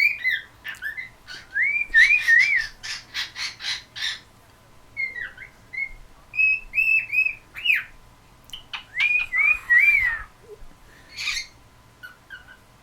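Cockatiel whistling short notes that rise and fall, in several groups, mixed with quick runs of harsh chirps.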